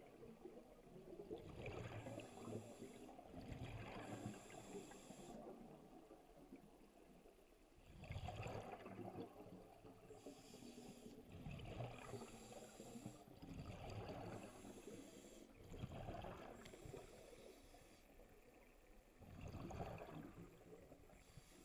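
Scuba diver breathing through a regulator underwater. A hiss on each inhale alternates with a rush of exhaled bubbles, one breath every few seconds.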